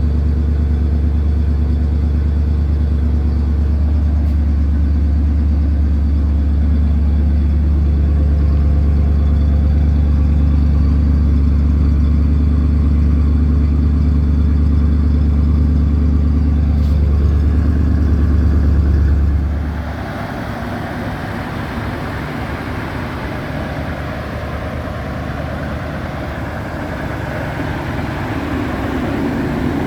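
Mercury Monterey Custom's 6.6-litre V8 idling cold, with a deep, steady idle note. About two-thirds of the way through, the deep note drops away suddenly and the idle turns quieter and rougher, with more of a higher rasp.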